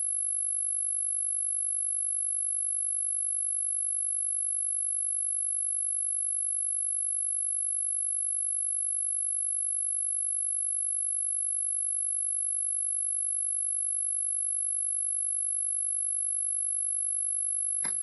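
A loud, very high-pitched pure sine-wave tone, held perfectly steady and unchanging.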